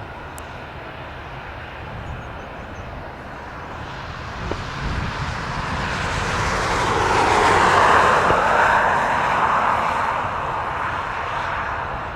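Airplane passing the airport spotting point: its engine noise swells over several seconds, is loudest about two-thirds of the way in, then begins to fade.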